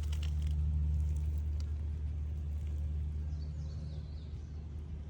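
A steady low mechanical hum at a fixed pitch, with no change across the few seconds.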